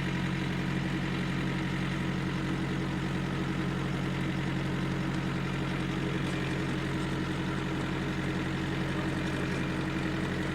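Engine running steadily at an even speed, the power for a homemade potato harvester, with a constant low hum.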